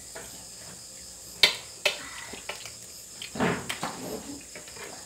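Cooked prawn shells being cracked and peeled by hand: two sharp snaps about a second and a half in, then a longer crunching rustle and a few small clicks. Under it runs a steady high-pitched chirring.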